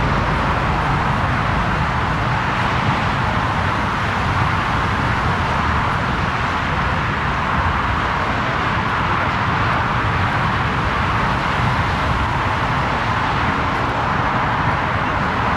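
Jet engines of a Lufthansa Airbus A340-300, four CFM56 turbofans, running with a steady, even noise that holds at a constant level.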